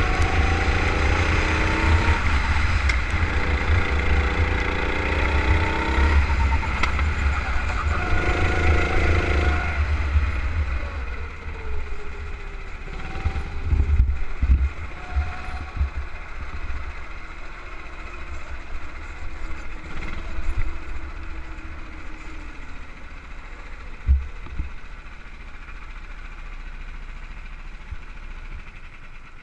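Go-kart engine, heard on board: for about the first ten seconds it revs hard with its pitch climbing in steps, then the throttle eases off and it runs quieter at lower revs, with a few thumps, fading toward the end.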